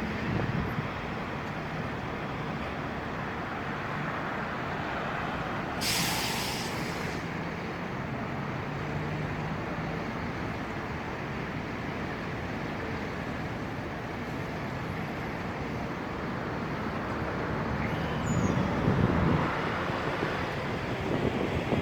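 Steady noise of street traffic and wind during a windstorm, with a heavy vehicle's air brake hissing briefly about six seconds in and a louder rumbling swell near the end.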